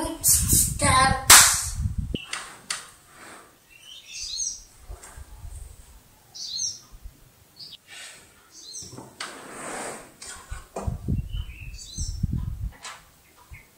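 A child's singing voice for the first couple of seconds, then scattered bird chirps: short high calls a few seconds apart. Low thumps and rumble come in the last few seconds.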